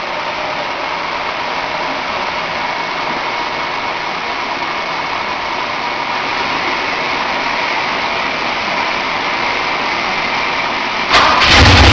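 A steady hiss, then near the end a 1988 Mustang notchback's 5.8-litre V8 fires up suddenly and runs loudly with a strong low note.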